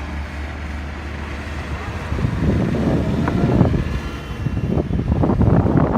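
Car driving on snowy roads: a steady low hum of engine and road noise, then about two seconds in a louder, rough rumble sets in and carries on.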